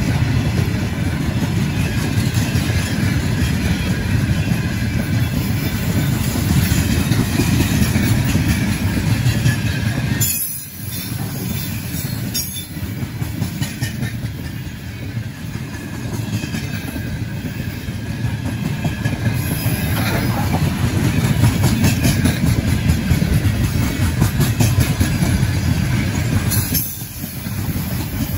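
A Russian railway train passing close by, a loud, continuous rumble with the wheels clattering on the rails.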